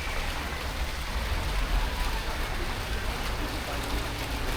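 Outdoor city street ambience: a steady low traffic rumble under an even, rushing hiss, with no single sound standing out.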